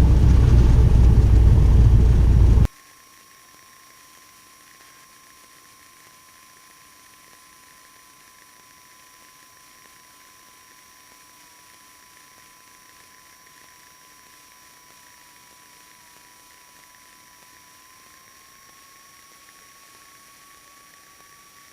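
Cabin noise of a 1977 Cessna 150 in the landing flare, its engine and airflow running loudly, cutting off abruptly about three seconds in. After that only a faint hiss remains, with a steady high whine.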